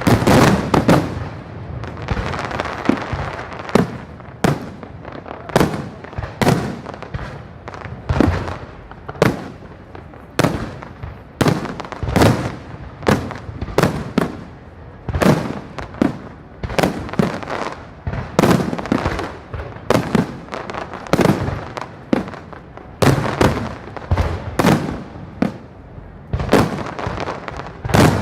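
Fireworks display: a steady run of aerial shell bursts, a sharp bang about every second, sometimes two close together.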